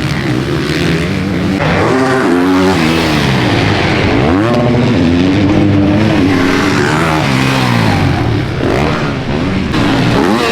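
Motocross dirt bike engines revving hard, the pitch climbing and dropping as riders work the throttle and shift, with sharp rises about four and a half seconds in and again near the end.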